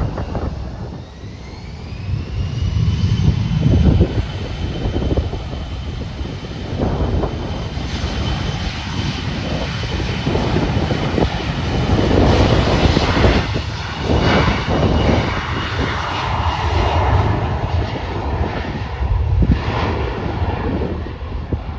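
Airbus A320 jet airliner's engines spooling up, a high whine rising over the first few seconds and then holding steady, with wind gusting on the microphone.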